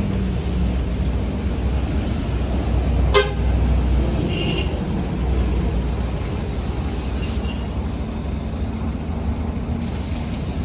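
Steady low road-traffic rumble with a single short vehicle horn toot about three seconds in.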